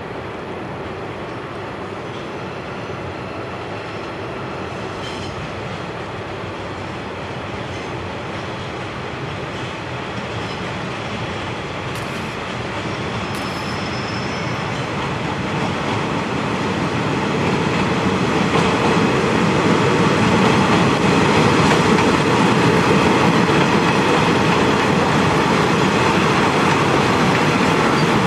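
Diesel express train approaching over station points and running past close by, wheels clattering on the rails. The noise builds about two-thirds of the way through and stays loud as the cars pass.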